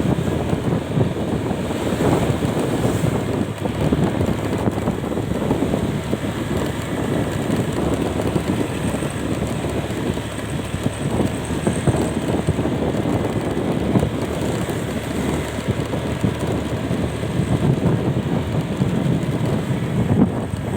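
Wind buffeting the microphone of a moving road vehicle, a steady rushing noise with engine and road noise underneath.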